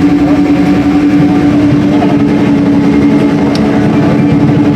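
Cabin noise inside a Boeing 777-200 on the ground just after landing: a steady rumble of engines and airflow with a constant droning hum.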